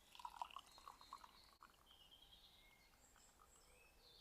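Near silence with faint woodland birdsong: a few short whistled notes and calls, busiest in the first second or so.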